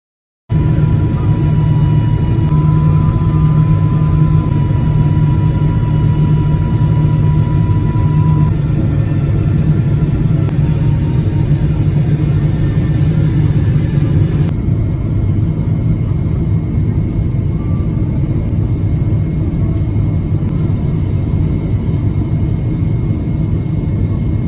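Cabin noise of a jet airliner descending to land: a loud, steady rumble of engines and airflow with faint steady whine tones above it. About fourteen seconds in, the higher part of the noise drops away.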